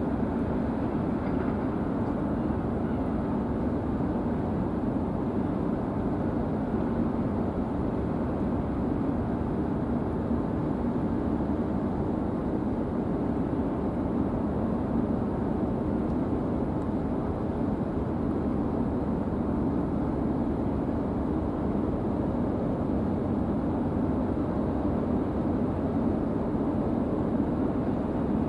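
Sado Kisen high-speed car ferry Akane's engines giving a steady, even drone as the ship pulls away from port and turns.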